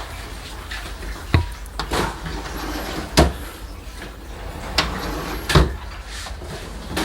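Kitchen handling sounds: about five separate knocks and clunks, like doors or drawers shutting and containers being set down, the loudest about three and five and a half seconds in, over a steady low hum.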